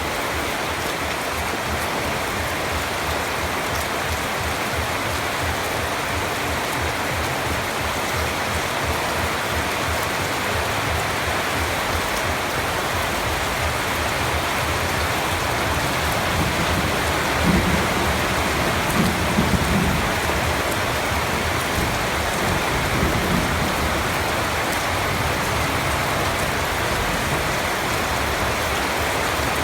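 Steady rain falling, an even hiss of many drops. Past the middle, a few low rumbles of thunder swell and fade.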